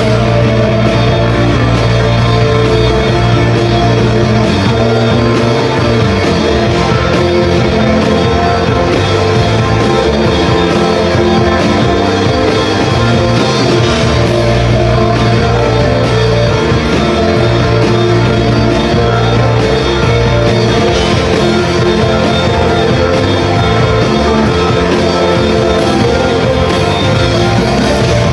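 Rock band playing live at full volume, with electric guitars, bass and drums.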